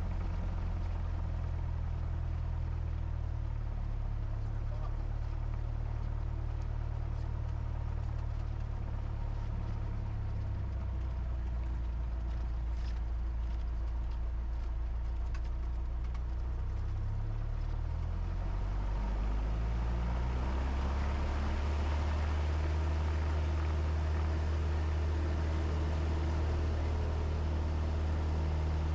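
Cessna 172's four-cylinder Lycoming engine and propeller running at low power, then rising in pitch over a few seconds past the middle as the throttle is opened, settling into a steady, slightly louder full-power run for the takeoff roll.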